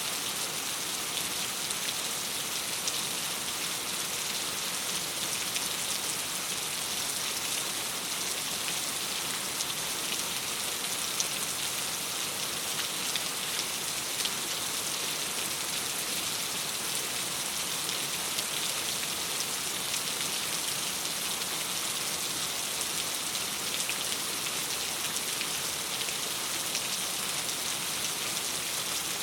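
Steady rain against a window: an even hiss with scattered faint ticks of drops, unchanging throughout.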